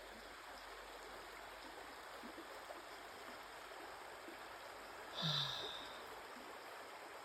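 Small babbling brook running over rocks, a faint steady rush of water. A little over five seconds in, a brief louder sound with a short falling pitch breaks over it.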